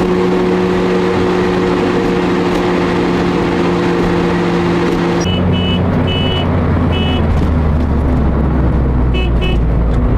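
Car being driven: steady engine hum over road noise. About five seconds in, the engine note drops to a lower pitch.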